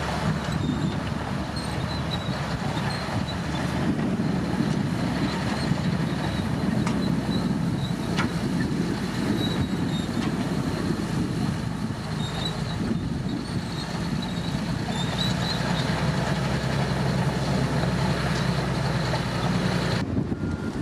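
Komatsu D65P crawler bulldozer running steadily at work, its diesel engine deep and even, with faint high squeaks over it. The higher part of the sound drops away suddenly just before the end.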